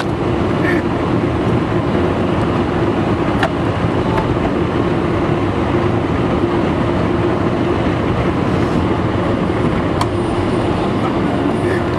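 Steady mechanical drone with a constant hum, heard from inside the closed cab of a pickup truck in a car wash, with a couple of faint clicks.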